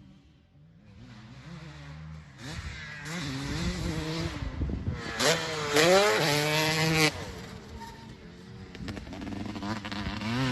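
Motocross bike engine revving, its pitch climbing and falling again and again as the rider works the throttle and gears. It is loudest from about five to seven seconds in, drops off sharply, then builds again near the end.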